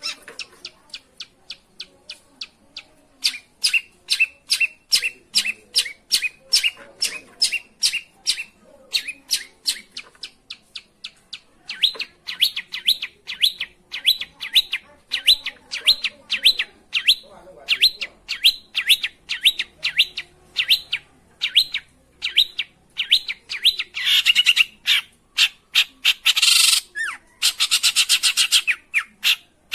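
Long-tailed shrike (pentet) calling: a fast run of short, sharp chirps, several a second, with a few longer, harsher notes near the end.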